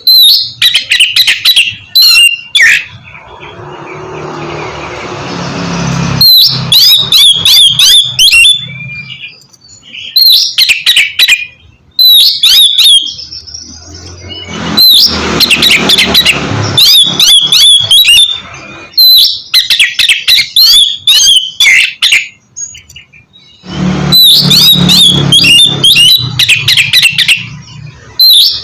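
Oriental magpie-robin (kacer) singing loud bursts of sharp, rapidly varied whistles and chattering notes, broken by short pauses. A rushing noise swells up beneath the song three times and then fades.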